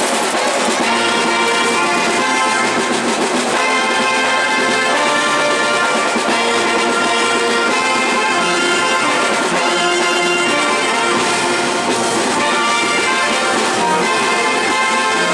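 Brass band playing a marinera, with trumpets and trombones carrying the tune.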